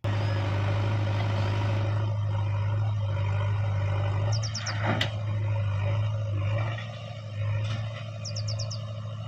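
A machine's diesel engine running steadily with a constant low hum, easing slightly in level late on. A bird calls twice in short runs of about four quick chirps, and a single sharp click sounds about halfway through.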